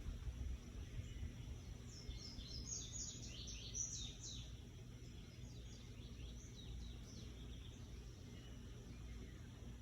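A bird calling outdoors: a quick series of high, short chirps about two seconds in, with fainter ones a few seconds later, over a steady low rumble of background noise.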